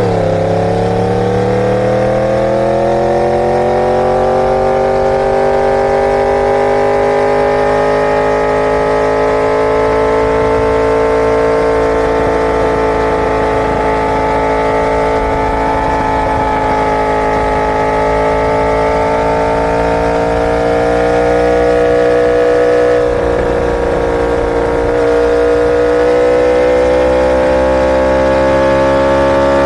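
Inline-four superbike engine pulling a long, unbroken high note: the pitch climbs quickly over the first few seconds, then rises slowly with no gear changes, dips briefly near the end and climbs again.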